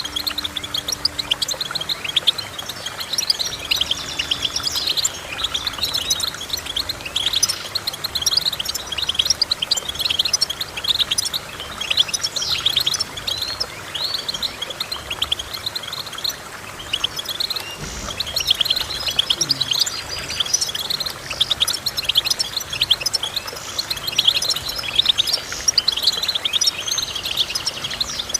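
Finch song: a continuous, fast twittering of short chirps and trills.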